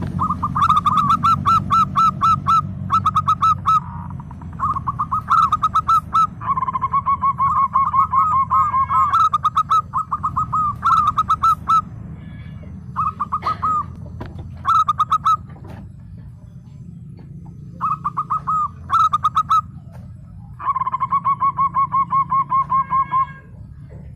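Zebra dove (perkutut) cooing in repeated phrases of rapid, staccato notes, each phrase lasting one to three seconds with short pauses between. A steady low hum runs underneath.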